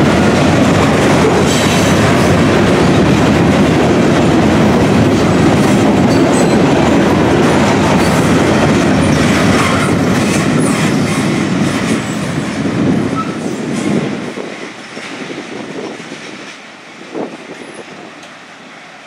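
Freight train's cars rolling past, steel wheels rumbling and clattering over the rails. The noise fades away as the last car goes by, about thirteen seconds in, leaving a quieter hush with one short clank near the end.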